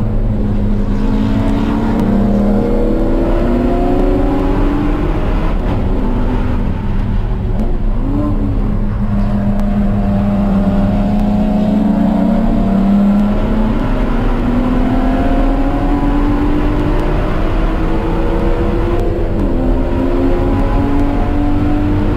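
Car engine under hard acceleration on a track lap, its note climbing slowly through each gear and dropping back several times at shifts or lifts, over steady road and wind noise.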